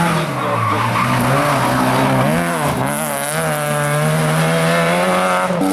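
Competition rally car engine running hard, its pitch dipping and swooping briefly about two and a half seconds in at a gear change, then holding steady before jumping near the end.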